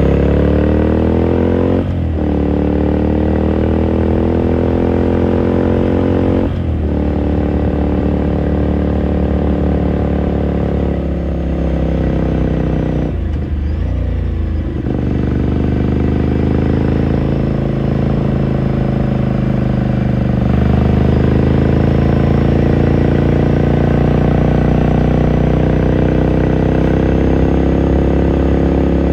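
2018 Ducati Scrambler Sixty2's air-cooled L-twin engine heard onboard through its exhaust, pulling up through the gears with brief breaks at the shifts about 2 and 6 seconds in, a rougher patch around the middle, then running at a steadier speed.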